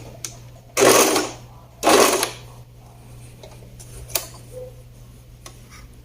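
Overlock (serger) sewing machine running in two short bursts, each about half a second, a second apart: a few stitches run to secure the start of the seam. A few light clicks follow.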